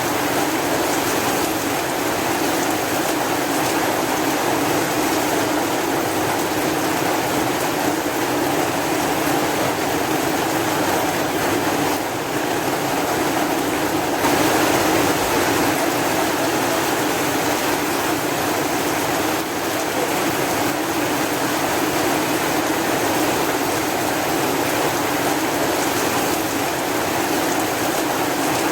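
Steady heavy rain, a constant dense hiss of falling water without breaks.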